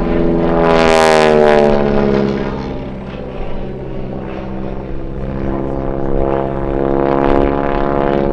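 A Super Stearman biplane's 450-horsepower radial engine and propeller flying by. The engine note swells about a second in and slides down in pitch as the plane passes, then grows louder again near the end.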